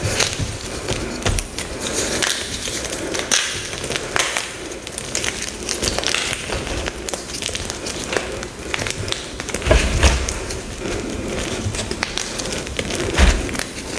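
Dyed gym chalk blocks being crushed by hand: continuous crisp crackling and crunching as the chalk breaks and crumbles, with a couple of heavier thumps about ten and thirteen seconds in.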